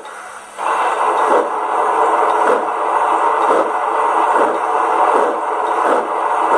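Sound decoder of a Rivarossi H0 Big Boy model locomotive playing steam-locomotive chuffing through its small onboard speaker. It gets louder about half a second in, then runs in an even, pulsing rhythm.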